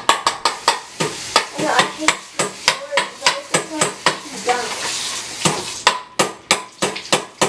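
Grill igniter sparking over and over: a rapid train of sharp electric clicks, about four or five a second.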